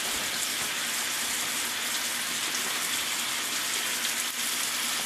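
Steady sizzling of food frying in skillets: asparagus under a glass lid and halved fingerling potatoes with sea salt.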